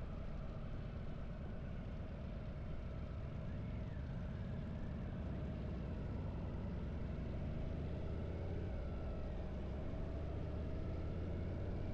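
Harley-Davidson air-cooled V-twin motorcycle engine running steadily on the ride, a dense low-pitched rumble that grows a little stronger in the second half.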